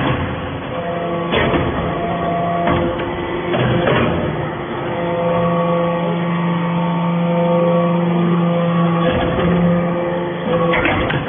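Hydraulic metal-chips briquetting press running: a steady machine hum with several held tones, broken by sharp knocks at uneven intervals, about six in all.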